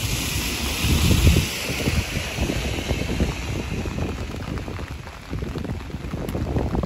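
Light rain falling on wet pavement as a steady hiss, with wind gusting on the microphone in low rumbles, strongest about a second in.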